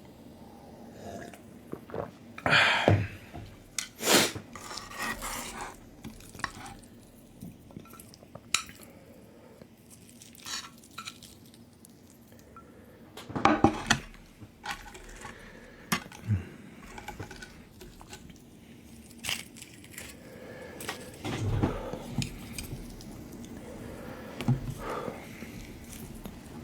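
Dishes and cutlery clinking and knocking on and off, with a few louder clatters spread through.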